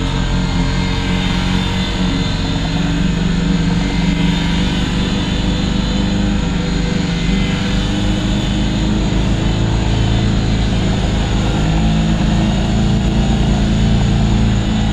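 Small WLtoys V911 radio-controlled helicopter in flight: its electric motors and rotor make a steady buzzing drone, the pitch drifting a little as the throttle changes.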